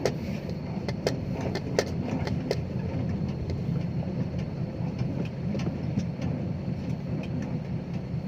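A dump truck's turbo diesel engine running steadily, with a few sharp clicks or knocks in the first couple of seconds.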